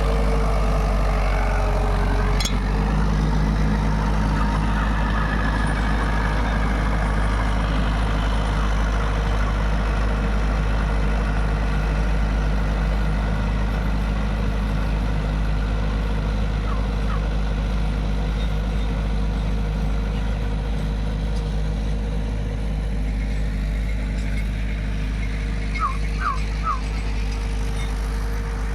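Mahindra 475 DI tractor's four-cylinder diesel engine running steadily while driving a rotavator through the soil. A single sharp click comes about two seconds in, and a few short high chirps near the end.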